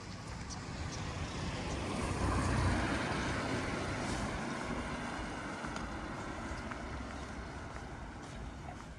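A car passing on a wet road: the hiss of its tyres and its engine swell to a peak about three seconds in, then fade slowly away, over steady rain.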